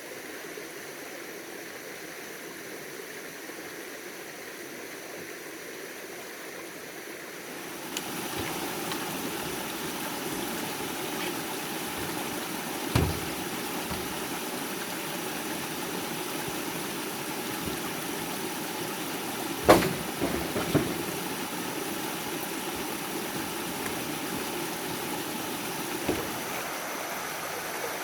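Steady rush of flowing stream water, growing louder about eight seconds in, with a few sharp knocks scattered through it; the loudest knock comes about two-thirds of the way through.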